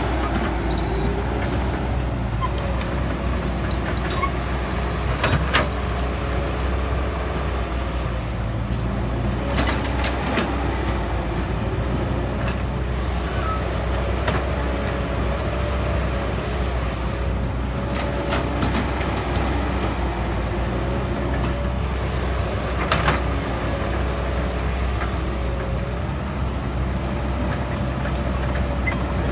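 Cat 312BL excavator's diesel engine running steadily under load while it digs in mud, with a higher whine that wavers up and down above the drone. A few sharp knocks are scattered through it.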